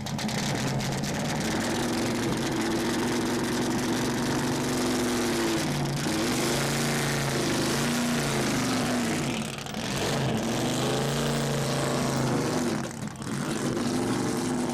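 A car engine running and being driven off, its pitch falling and rising several times as the revs change.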